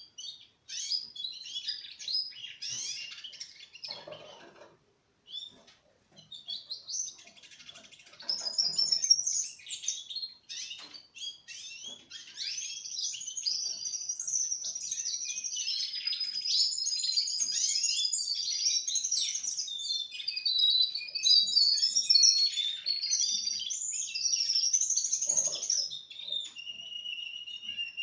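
Four-month-old male Russian canaries singing: fast trills, chirps and warbles. There is a short pause about five seconds in, then unbroken song, with a steady lower whistle near the end.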